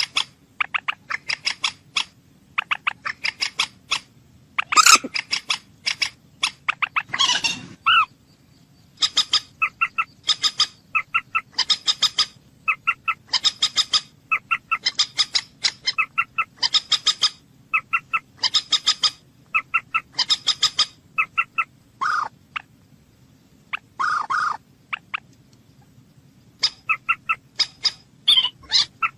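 Bird calling in quick bursts of short, sharp notes, a burst about every second, with a few longer, sweeping calls in between.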